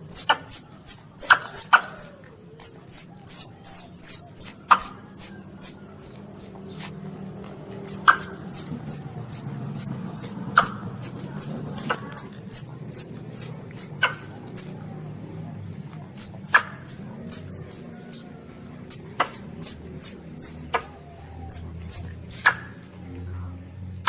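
Young civet (luwak) calling: a rapid run of short, very high-pitched squeaks, each falling in pitch, about two or three a second, with a couple of brief pauses.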